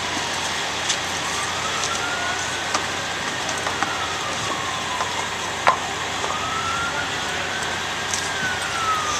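Emergency vehicle siren on a slow wail, its pitch rising, holding and falling twice in the stretch, over a steady background hiss, with a few sharp clicks, the loudest about halfway through.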